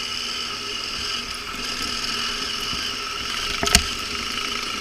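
Motorcycle engine idling steadily, with a single sharp click about three and a half seconds in; the bike is overheating.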